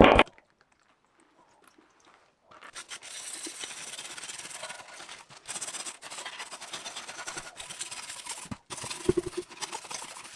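Near silence for about two seconds, then steady scrubbing or brushing on a part, stopping briefly twice, with a few light knocks.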